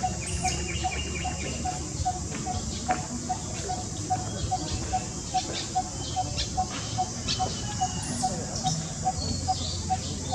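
Birds calling: a short low note repeated steadily about three times a second, with scattered higher chirps over it.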